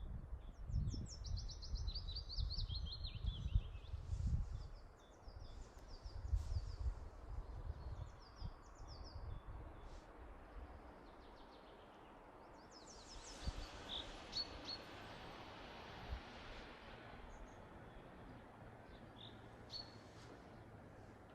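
Songbirds singing: fast trills of quickly repeated high notes at the start and again about halfway, with scattered chirps in between. A low rumble runs under the first part and fades out.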